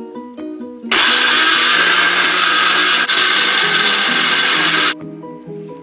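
Electric blender running at full speed, whipping a dalgona coffee mixture of instant coffee, sugar and egg white. It starts about a second in, runs loud and steady for about four seconds, then stops, over plucked background music.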